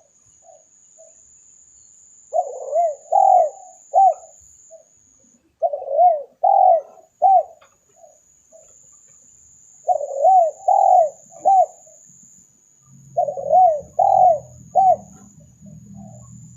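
Spotted dove cooing as a recorded lure call: four phrases of three loud coos each, a few seconds apart.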